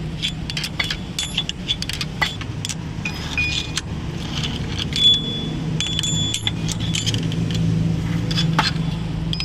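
Metal tools and parts clinking and tapping against each other, many quick knocks, some with a short ringing note, over a steady low machine hum.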